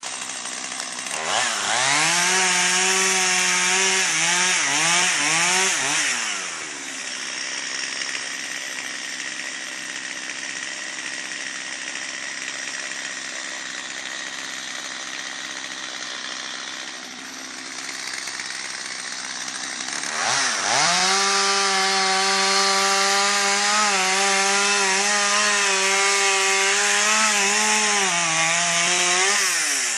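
Chainsaw revving from idle to full throttle and held high for several seconds, twice, with a few dips in pitch during the first run. Between the two runs it falls back to a lower, quieter running sound for about fourteen seconds.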